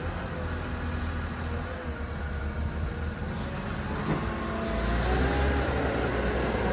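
Caterpillar 938M wheel loader's diesel engine running with a steady low rumble, getting louder about five seconds in, when a whine appears that wavers up and down in pitch.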